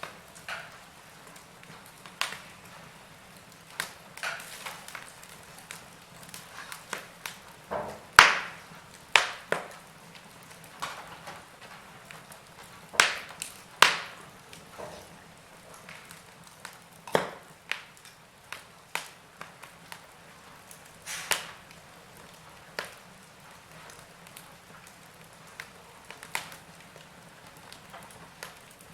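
Wood fire crackling: irregular sharp pops and snaps from burning logs over a faint steady hiss, with the loudest pops about eight seconds and thirteen seconds in.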